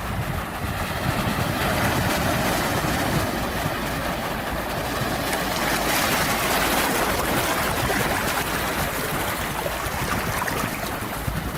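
Sea waves washing on a shore: a steady rushing surf that swells about a second in, again around the middle, and eases off near the end.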